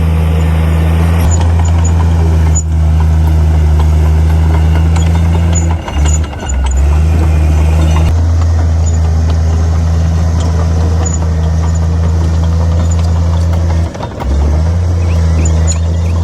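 Heavy diesel earthmoving machinery running steadily with a deep, even engine hum, which dips briefly about six seconds in and again near the end.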